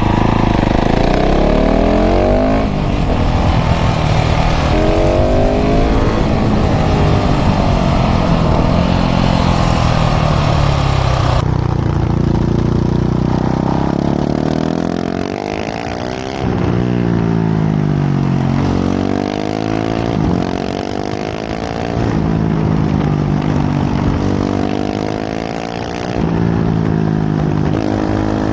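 KTM 690 SMC R's single-cylinder LC4 engine through a full LeoVince exhaust, heard from the bike itself. It pulls hard with its pitch climbing through the gears, drops back at each shift or when the throttle is closed, then accelerates again, over and over.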